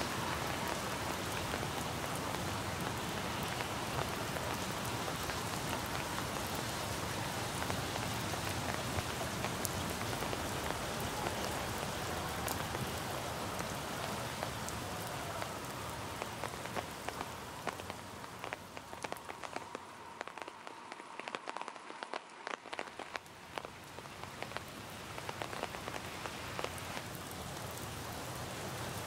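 Steady rain falling, an even hiss. About two-thirds through, the hiss eases for several seconds and individual drops tick out more distinctly before it builds back up.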